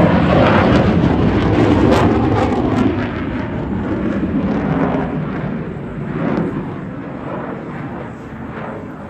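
Engine of an aerobatic airplane flying past, loud at first and then slowly fading as it moves away.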